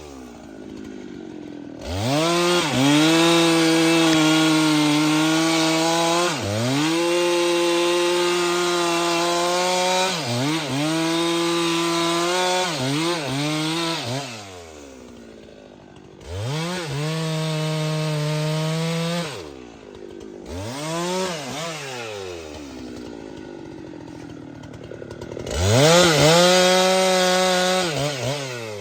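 Chainsaw revved to full throttle in repeated bursts of a few seconds each, its pitch held high while cutting into the tree. Between bursts it drops back to idle.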